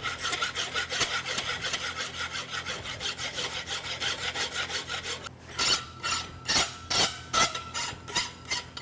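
Farrier's rasp filing the edges of a steel concave horseshoe, dressing them to the top line. For the first half it makes quick, short scraping strokes. From about halfway the strokes are slower and louder, a little over two a second, and the steel rings faintly with each one.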